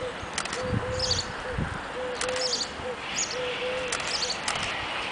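Birds calling: short high chirping phrases repeated about once a second, over a lower short two-note call that repeats at a steady pace, against a steady outdoor hiss.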